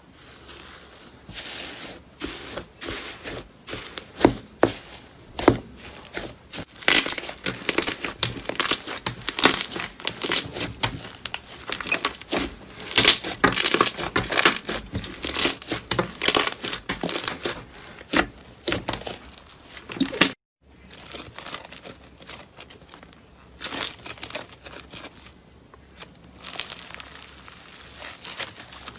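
Slime being squeezed and pressed in the hands, giving dense runs of small crackles and pops. There is a brief break about two-thirds of the way through, then the crackling starts again.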